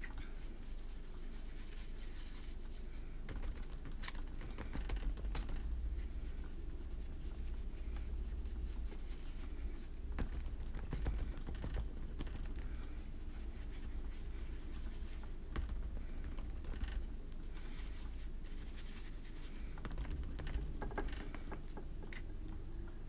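Scattered small clicks, taps and light scratching from hand work at a desk, over a steady low rumble.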